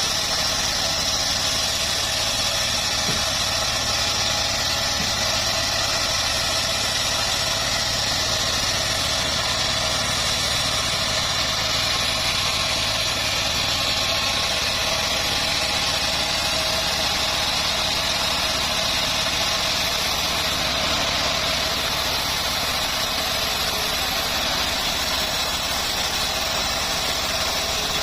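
Homemade bandsaw mill running with a steady, even drone that does not change.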